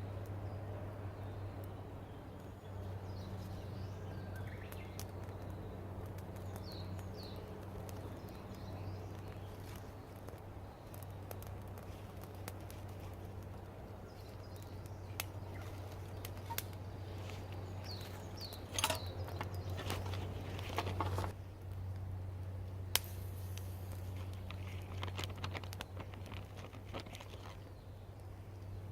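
Small birds chirping now and then over a steady low hum, with scattered sharp clicks and a short burst of crackling about two-thirds of the way through.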